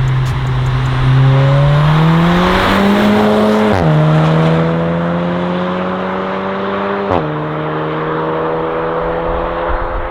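Seat Leon Cupra 300 ST's 2.0-litre turbocharged four-cylinder, breathing through a straight-pipe valved sports exhaust, accelerating through the gears. The engine note rises steadily, drops sharply at two upshifts about three and a half seconds apart with a short crack at each shift, then climbs again.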